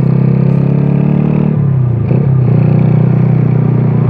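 Single-cylinder four-stroke engine of a bored-up Yamaha Jupiter Z 115cc running through an aftermarket CLD racing exhaust, a loud, deep exhaust note. Its pitch drops and wavers about halfway through, then holds steady again.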